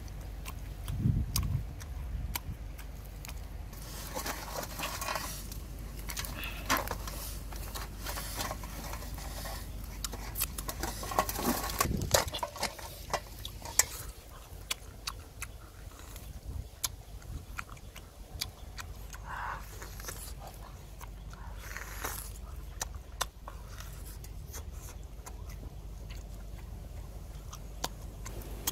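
Close-up eating sounds of grilled duck: biting and tearing meat off the bone, chewing and mouth smacking, heard as many short irregular clicks and wet noises, with a couple of low bumps.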